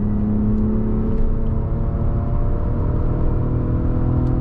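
Audi A6 3.2 FSI V6 engine running hard on track, heard from inside the cabin over steady road and tyre rumble. The engine note holds fairly steady, drifting only a little in pitch.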